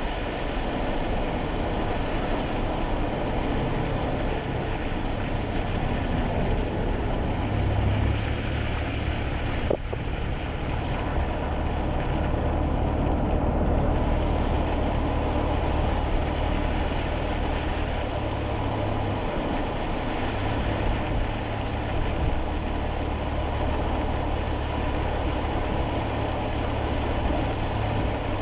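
Kei car driving on a wet road, heard from inside the cabin: a steady low engine hum under continuous road noise and tyre hiss.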